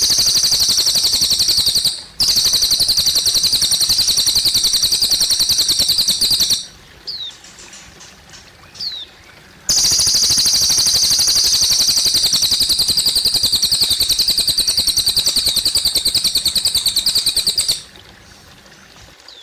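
A cililin bird singing a loud, very fast, high-pitched trill in long runs of several seconds. There is a short pause about 2 s in and a longer gap from about 7 to 10 s, where two brief downward-sliding notes are heard. Under the song, water trickles; it is heard on its own in the gaps and near the end.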